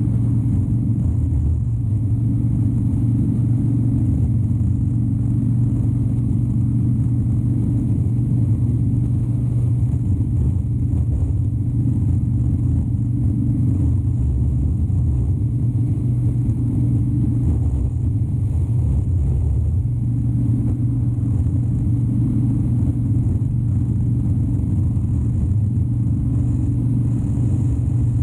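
Harley-Davidson Dyna Wide Glide's 103-cubic-inch V-twin engine running steadily under way, a low, even rumble, with a slight easing about twenty seconds in.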